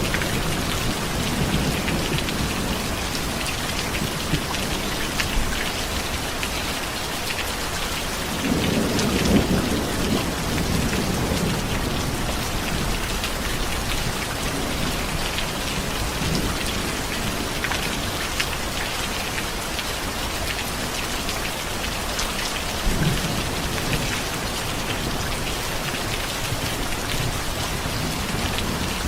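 Steady heavy rain falling, with rolls of thunder rumbling underneath; the loudest roll comes about eight seconds in, and a shorter one about twenty-three seconds in.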